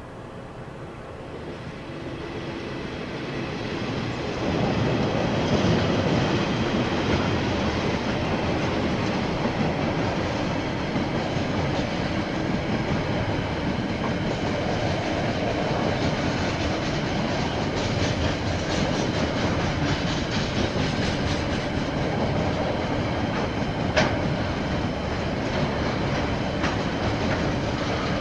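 KiwiRail train passing on the line, swelling over the first few seconds as it approaches, then a steady rumble with the clickety-clack of wagon wheels over the rails and a single sharp click near the end.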